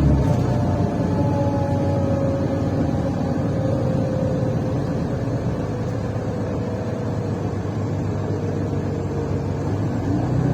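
Mercedes-Benz Citaro intercity bus's diesel engine running under way, heard from inside the passenger cabin, its exhaust defective. A whine falls in pitch over the first few seconds, and the low rumble swells again near the end.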